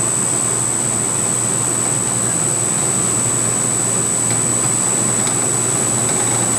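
CNC milling machine with a belt-drive spindle running a 7/8-inch three-flute high-speed steel end mill on a finishing pass: a steady machining noise with a constant high-pitched whine over it.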